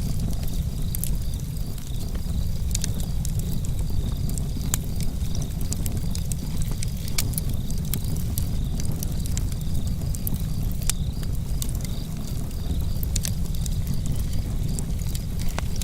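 Wood fire burning with a low, steady rumble and scattered sharp crackles and pops. Crickets chirp steadily in a high, pulsing trill throughout.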